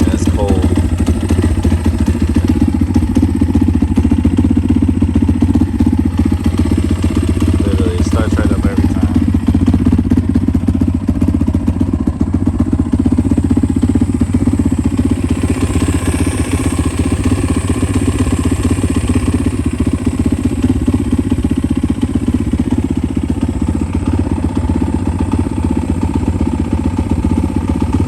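GPX Moto 190cc single-cylinder dirt bike engine, oil-cooled with a 28 mm carburettor and the stock 125 exhaust, idling steadily just after start-up.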